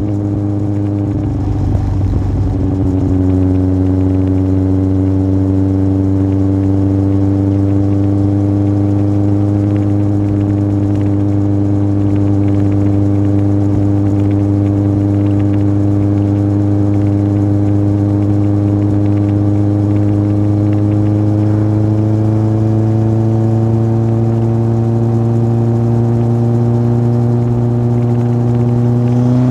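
Yamaha Fazer 1000's inline-four engine through a MIVV aftermarket exhaust, under way. The note changes in the first couple of seconds, then holds steady at constant revs and creeps up in pitch near the end as the bike speeds up.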